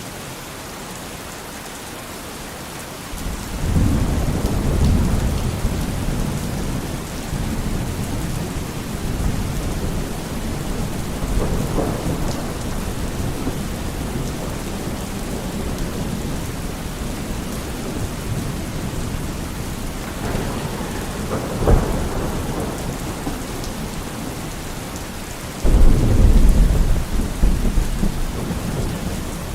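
Steady rain with thunder. A low rumble rolls in about three seconds in, there is a sharper crack a little after the middle, and a louder rumble begins near the end.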